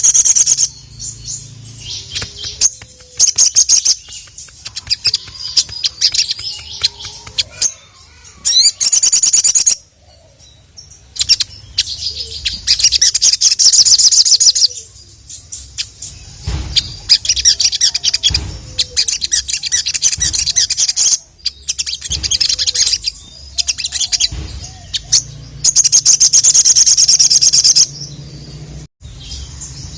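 A sogok ontong (sogon) songbird singing vigorously: repeated loud, high, rapid trilling phrases of one to three seconds each, separated by sharp ticking chips.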